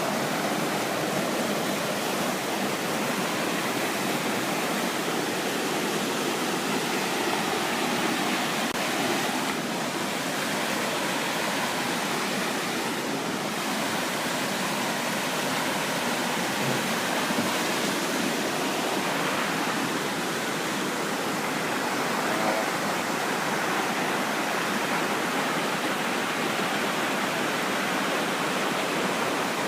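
Pistyll Rhaeadr waterfall: water falling and splashing in a steady, even rush.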